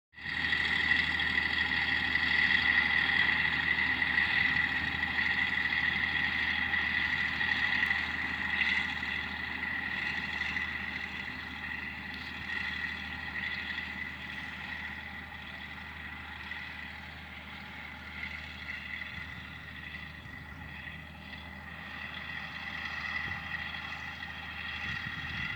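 Farm tractor engine running while working a hayfield, with a steady high whine over the engine note. It is loudest at first, fades as the tractor draws away, and grows again near the end as it comes back.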